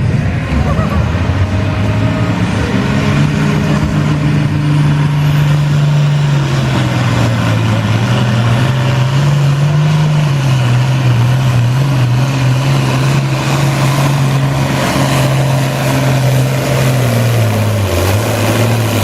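International Harvester 966 tractor's engine running hard under load while pulling the weight sled, its note holding steady and sagging slightly later in the pull.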